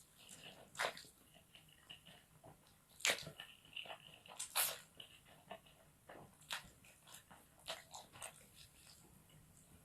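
Close-up mouth sounds of someone chewing fried rice stick noodles: irregular wet smacks and sharp crunchy clicks. The loudest come at about one, three, four and a half and six and a half seconds in.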